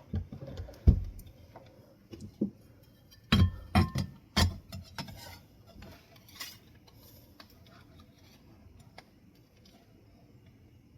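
Metal ceiling-fan housing parts knocking and clinking together as the top cover is fitted onto the motor: a string of sharp knocks over the first few seconds, the loudest about a second in, then a few faint ticks before it goes quiet.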